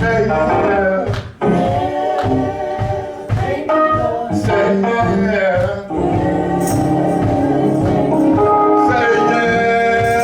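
Gospel singing with instrumental accompaniment, ending in a long held chord over the second half.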